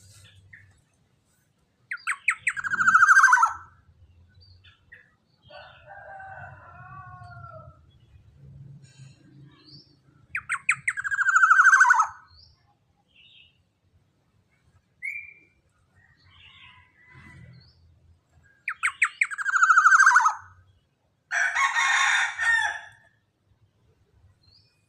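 Young black-naped oriole calling: three loud calls about eight seconds apart, each a quick stutter that runs into a falling note, then a scratchy call near the end, with softer warbling notes in between.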